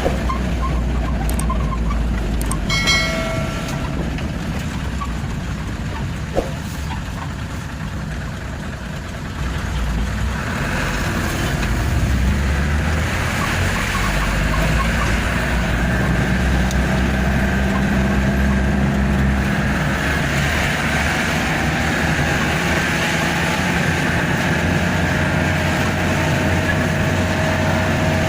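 Truck running on the road with a steady low engine rumble. About three seconds in there is a brief high tone, and about six seconds in a single sharp knock. The engine and road noise grow louder from about ten seconds in.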